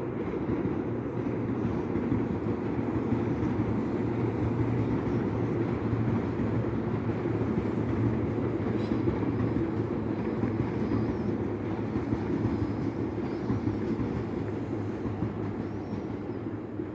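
Tobu Tojo Line electric train running past, a steady rumble that fades toward the end.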